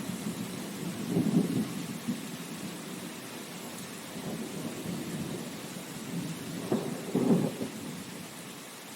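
Steady rain with low rumbles of thunder, one swelling about a second in and another near the end.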